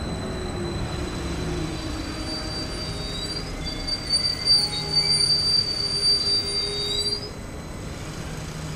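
MBC metre-gauge electric train rolling slowly into the station and braking to a stop. A high-pitched squeal starts about two seconds in, grows louder, and stops abruptly about seven seconds in as the train halts, leaving a low rumble.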